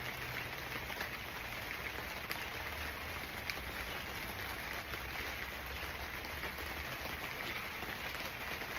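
Steady rain falling, with a few sharper single drop hits.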